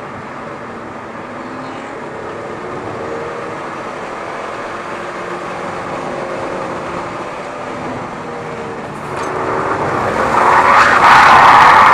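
Mitsubishi Lancer Evolution VIII's turbocharged four-cylinder engine at speed on track, its pitch rising and falling, heard faintly under road and wind noise. About nine seconds in, a loud rushing noise swells up and takes over.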